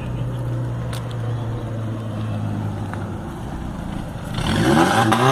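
Fiat Uno engine and exhaust running at a steady, even note, then revving up about four seconds in, the pitch rising and the sound getting louder.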